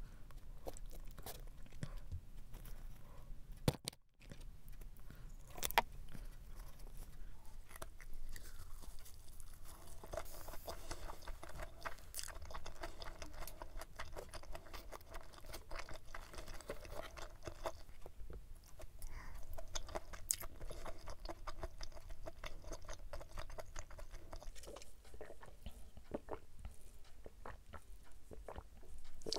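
Close-miked chewing and biting of stir-fried pork intestines with vegetables and a tuna-mayo rice ball wrapped in a leaf: wet mouth sounds with soft crunches. There is a brief dropout about four seconds in.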